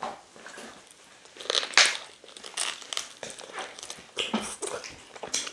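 Close-up sounds of a person biting and chewing food eaten by hand: irregular bites and chews, loudest a little under two seconds in.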